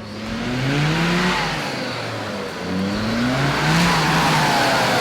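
An off-road 4x4's engine revving hard through deep mud, climbing in pitch about a second in, dropping, then climbing again past the midpoint, over a steady hiss of spinning tyres and mud.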